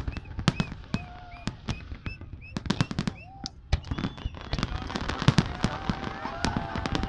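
Fireworks display: a rapid, irregular string of sharp bangs and pops from bursting shells, growing denser and louder in the second half.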